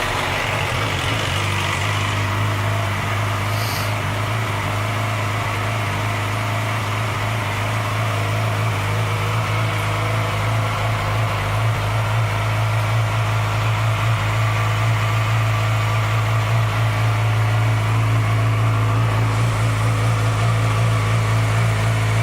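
2007 Yamaha YZF-R6's inline-four engine idling steadily, just after being started.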